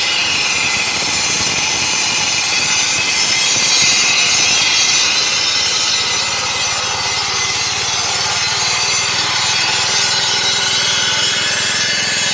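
Electric garage door opener running steadily as its drive moves the door, a continuous rasping mechanical noise with a faint steady hum underneath.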